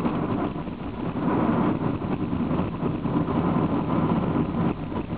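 Honda car driving, heard from inside the cabin: a steady mix of engine and road noise.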